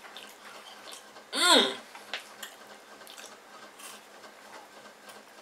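Faint clicks and smacks of a person chewing a chocolate bar, broken about a second and a half in by one short voiced 'mm'-like sound that rises and falls in pitch.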